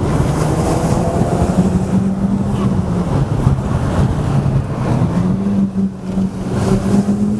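Tuned Audi S3 8P's turbocharged 2.0 TFSI four-cylinder engine running while driving, heard from inside the cabin. The engine note drops after about a second, holds lower, then rises again around halfway and keeps climbing slightly.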